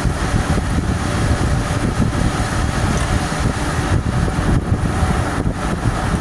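A 2006 Club Car DS electric golf cart being driven uphill: steady wind rush and buffeting on the microphone over the rumble of the moving cart.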